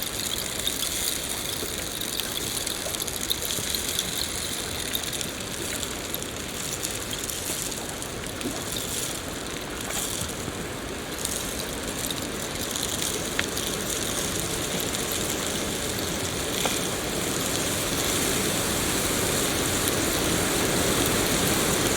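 Steady rain falling: an even hiss with a few faint scattered ticks of drops.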